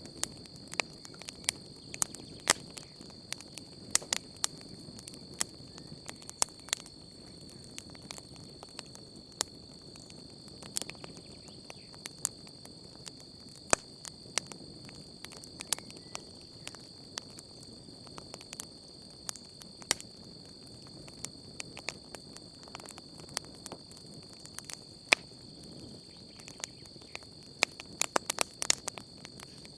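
Wood campfire crackling, with irregular sharp pops throughout and a quick run of pops near the end, over a low steady hiss of the flames. Crickets chirr steadily in a high, unbroken tone behind it.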